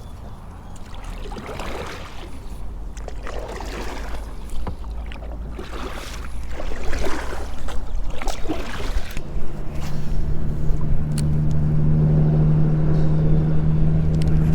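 Soft water and handling swishes from a fishing kayak about every second or so, then about nine seconds in a steady low hum starts and holds.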